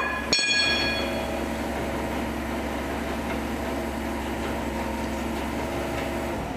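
Forklift engine running steadily, with a sharp metallic clang just after the start that rings on for about a second. The engine sound cuts off abruptly near the end.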